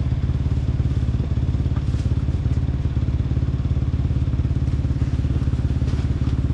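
Dirt bike engine running steadily at low, even revs, with faint clatter over the top.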